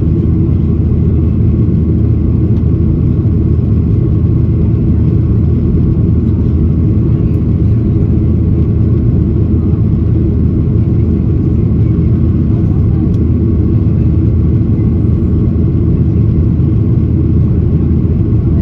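Steady cabin drone of a Boeing 737-800 in flight, heard from a window seat: its CFM56-7B turbofans and the rushing airflow make a loud, even, low rumble with a faint steady tone above it.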